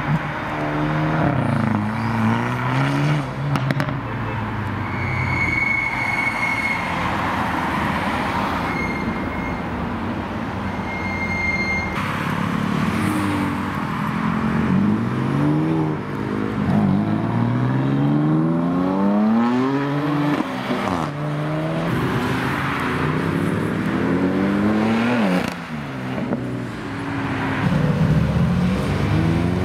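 Several performance cars pulling away one after another, each engine revving hard as it accelerates, its pitch climbing, dropping at a gear change and climbing again.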